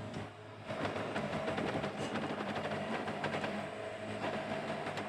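Yanmar YB451 mini excavator's diesel engine running, with a dense clatter of metallic rattles and clanks as the machine works. It gets louder about a second in.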